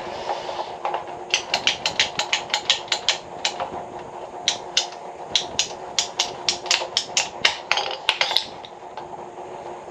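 Light, quick hammer taps in two runs of about four or five strikes a second, with a short break between them, over a steady background noise.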